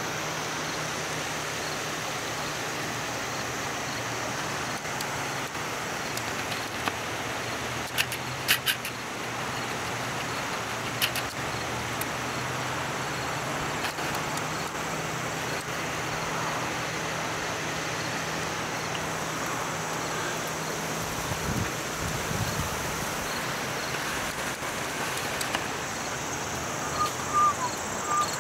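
Steady rushing noise of floodwater, with a low engine hum under it that stops about three-quarters of the way through. A few sharp clicks come near the middle.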